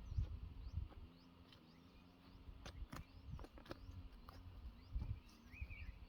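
Scattered knocks and low thumps, with faint high chirps of small birds and a short warbling call near the end, over a low steady hum.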